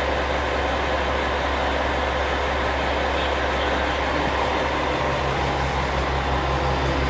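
Sakai Line diesel train running: a steady rumble and rush of noise with a low hum, and a second, slightly higher hum joining about five seconds in.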